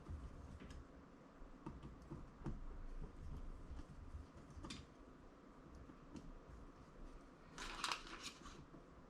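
Faint scattered clicks and taps of small carburetor parts being handled and fitted, with a short flurry of sharper clicks near the end.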